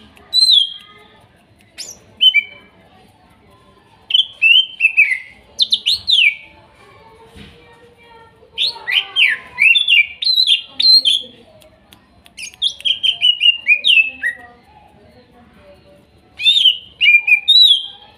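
Cucak ijo (leafbird) singing: bursts of loud, rapid whistled notes, most sliding down in pitch, in phrases of one to three seconds with short pauses between.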